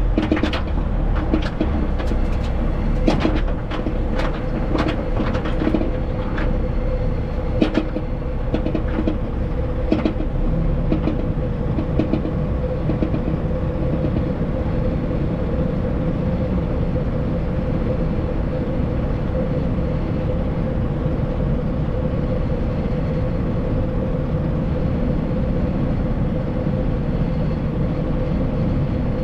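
Heavy truck on the road: steady engine and road rumble, with a run of sharp clicks and knocks over the first ten seconds or so, like joints in the road or rattles.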